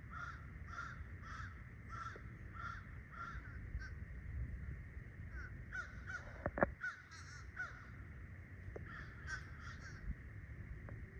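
A flock of birds calling over and over, several short calls a second, in three spells with brief gaps between them. There is one sharp click about six and a half seconds in.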